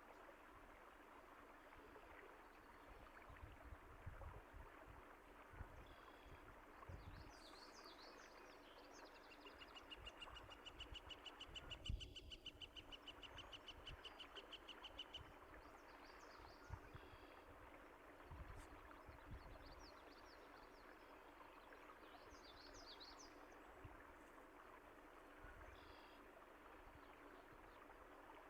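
Stream water running steadily and softly, with songbirds chirping now and then and one bird giving a fast, even trill for about six seconds in the middle. A low thump about midway.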